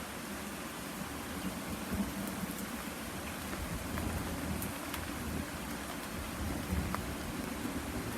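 Heavy rain falling steadily in a thunderstorm, a dense hiss with a low rumble underneath and a few faint sharp drop hits.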